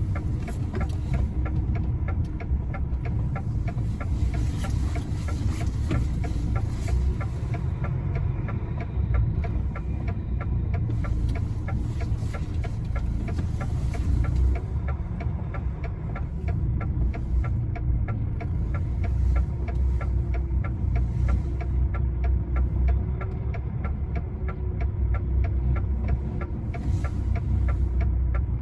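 Truck's diesel engine running at low revs as the lorry is manoeuvred into position, heard from inside the cab as a steady low rumble with a fast, even pulse.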